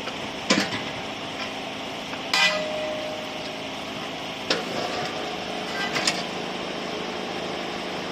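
Steel parts clanking four times against each other, one clank ringing on briefly, over a steady machine hum, during steel truck wheel and tire assembly.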